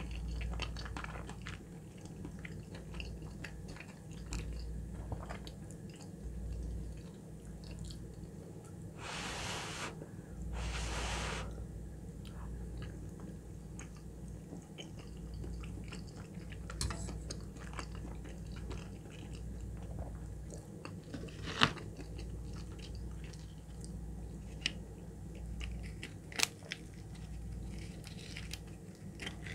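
Close-up chewing of a mouthful of creamy chicken alfredo pasta: soft wet mouth sounds and biting. Two short rushes of breath-like noise come about nine and eleven seconds in, and a few sharp clicks follow in the second half, the loudest about twenty-two seconds in.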